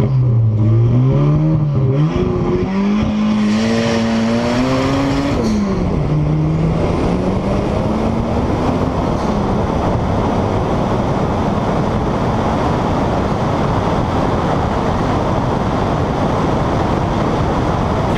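Turbocharged 16-valve four-cylinder engine of a VW Corrado revving at the start line, then pulling hard with a rising pitch. The pitch drops at a gear change about five and a half seconds in and climbs again. From about nine seconds on, a steady rush of wind on the microphone covers the engine.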